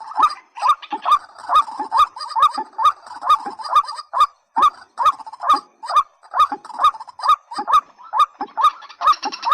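White-breasted waterhen and watercock calling: a fast, unbroken run of rising hooked notes about two to three a second, with a deeper note roughly once a second.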